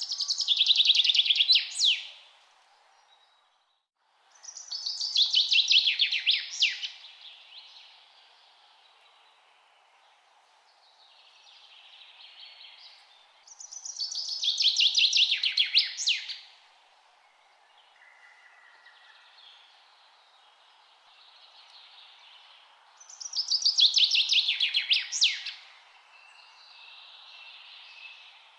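A songbird sings the same loud trilled phrase four times, each about two seconds long. Each phrase falls in pitch and ends in a quick flourish of sharp notes. Between the phrases, other birds call faintly over a low steady hiss of background noise.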